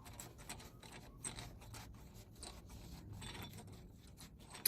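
Faint clicks and scraping of hand work on a car's front wheel hub assembly, metal parts being handled and rocked, with one sharper click at the very end.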